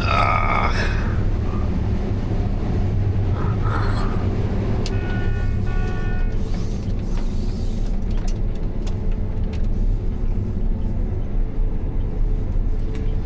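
Combine harvester running steadily while picking corn: a continuous low machine rumble. A short steady higher tone sounds for about a second roughly five seconds in.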